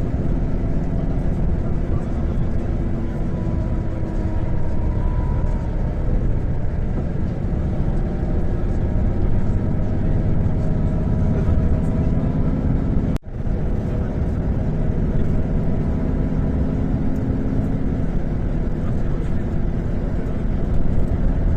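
Steady low rumble of a moving motor vehicle, with faint voices underneath; the sound drops out for an instant about two-thirds of the way through.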